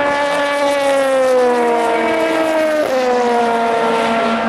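A race car's engine dropping steadily in pitch as it slows. Nearly three seconds in, the pitch jumps sharply up as the car changes down a gear, then it falls away again.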